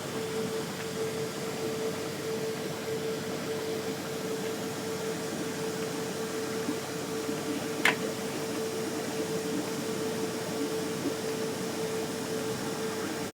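Electric air blowers of a modular inflatable boat lift running steadily, pumping air into the lift's cells to raise the boat, with a constant hum over a rushing noise. A single sharp click about eight seconds in.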